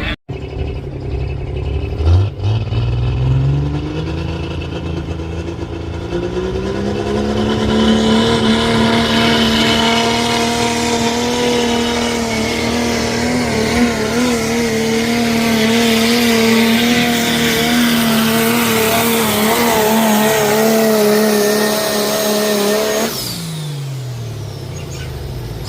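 Pulling truck's engine revving up as the pull starts, then held at high revs under full load for about fifteen seconds with a slight wavering in pitch, before the revs drop away near the end as the throttle is let off at the end of the pass.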